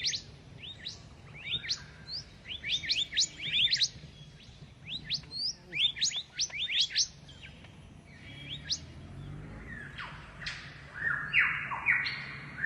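Wild birds calling: quick high chirps and whistled notes in rapid clusters, then from about ten seconds in a run of harsh, rasping squawks repeated several times.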